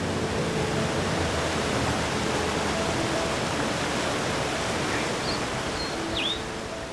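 Steady rush of flowing mountain stream water, with a few short high chirps about five to six seconds in; the rush drops away just before the end.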